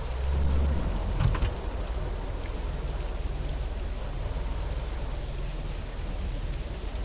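Steady rain falling on a car being driven, with a constant low rumble underneath. A louder low swell fills the first second and a short knock comes just after.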